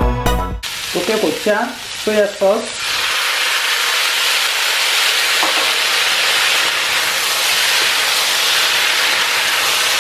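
Chopped bell peppers and onions frying in a hot wok, turned with a spatula at first with scraping and stirring noises, then a steady sizzle.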